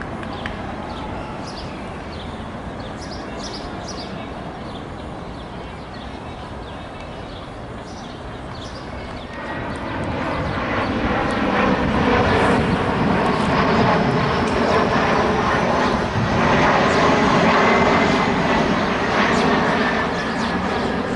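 Jet airliner's engines growing loud as it passes close overhead, a steady whine layered over engine noise, from about ten seconds in. The whine falls slightly in pitch near the end.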